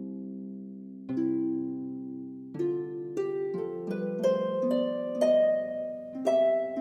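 Relaxing instrumental music on harp: plucked chords ringing out, then a run of quicker notes from about two and a half seconds in.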